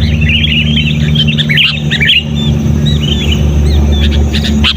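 Sooty-headed bulbuls (kutilang) calling: a dense, rapid run of chirping notes for about two seconds, then sparser single calls. A steady low hum runs underneath.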